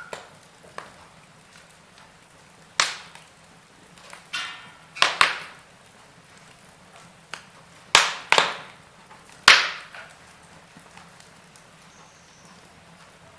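Burning wood fire crackling: a string of sharp pops and snaps at irregular intervals a second or so apart, over a faint low hiss of the flames.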